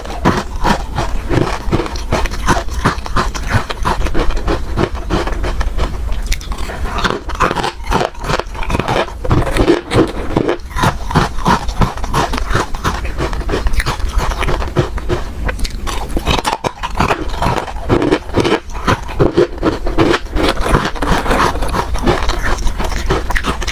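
Ice being bitten and chewed close to the microphone: a continuous run of sharp crunches and cracks.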